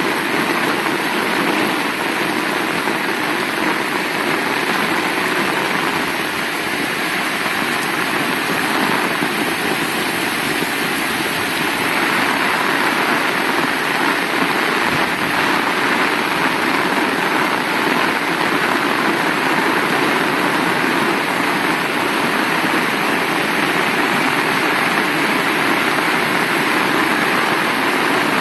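Heavy rain falling steadily, a dense even hiss that grows a little louder about twelve seconds in.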